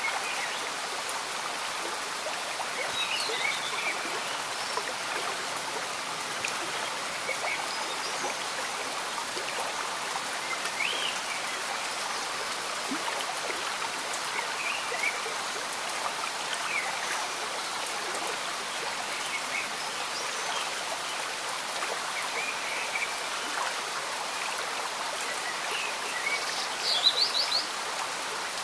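Steady gentle rain and a slow-moving, bubbling stream, with birds chirping now and then and a quick burst of chirps near the end.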